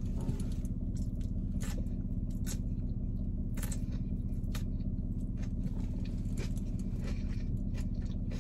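Close-up chewing and eating sounds: irregular small clicks and crunches of food in the mouth, over a steady low hum from the car.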